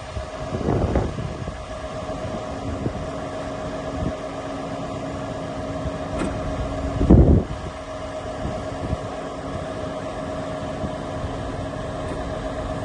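Scania R520 truck's V8 diesel running at a steady idle with a constant whine over the low rumble. Two brief, louder rushes of noise come about a second in and about seven seconds in.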